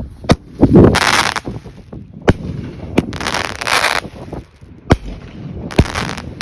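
Sunwing 'Redneck Mother' 9-shot 500-gram firework cake firing: sharp reports every second or two, some followed by a loud burst of hiss and crackle lasting up to about a second.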